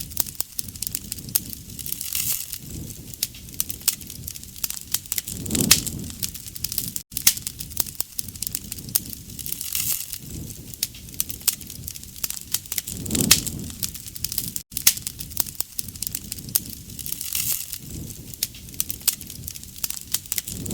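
Campfire of burning wood crackling and popping: dense sharp snaps over a low rush of flame that swells up about every seven to eight seconds.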